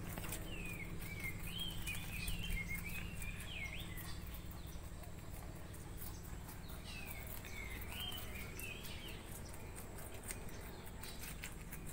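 A songbird twittering in quick warbling phrases, one bout near the start and another just past the middle, over a low steady hum. Faint crisp clicks from rabbits chewing cabbage leaves run through it.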